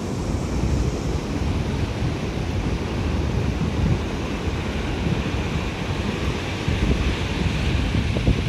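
Wind buffeting the microphone with a low rumble, over the steady wash of sea waves on the shore.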